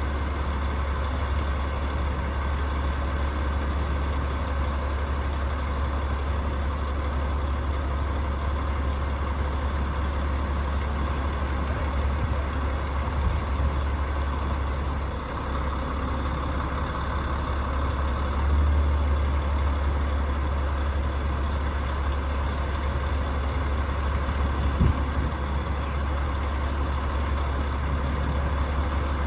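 Rooftop HVAC unit running with a steady low hum, with one short knock near the end.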